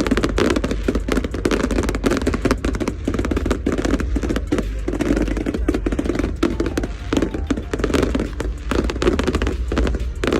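Fireworks crackling in a dense, continuous stream of rapid pops.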